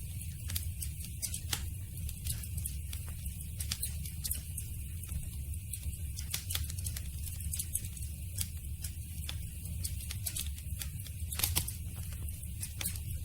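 Campfire burning: wood crackling with frequent irregular sharp pops over a steady low rumble of the flames, with one louder pop near the end.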